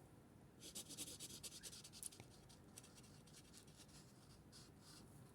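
Faint rapid strokes of a felt marker tip rubbing across paper for about a second and a half, then near silence.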